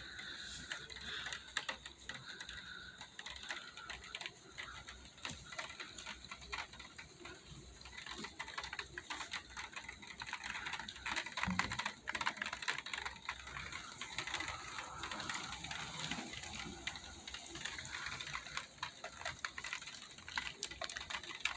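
Rain falling, raindrops pattering as a dense, irregular ticking.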